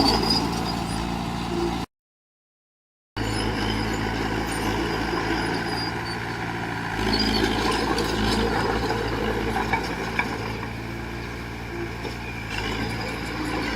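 Heavy diesel engine of earthmoving machinery running steadily, with light metallic clinks over it. The sound cuts out completely for about a second, about two seconds in, then carries on.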